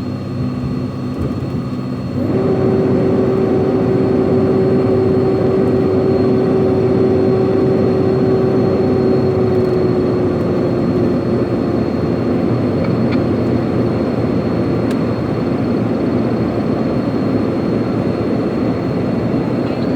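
Heavy truck's engine running on a downhill, with a steady drone. About two seconds in it gets suddenly louder, and after the middle the drone slowly drops in pitch.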